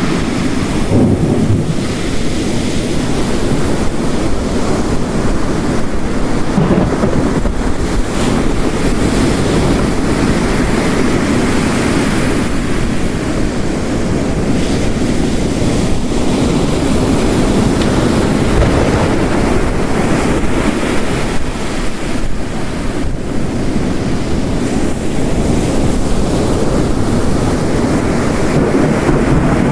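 Ocean waves crashing on a coast mixed with heavy rain: a dense, steady wash of noise, heaviest in the low end, that swells and eases slowly.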